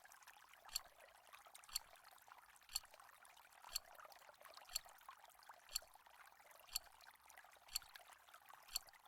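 Quiz countdown timer ticking faintly, one sharp tick about every second, over a faint steady hiss.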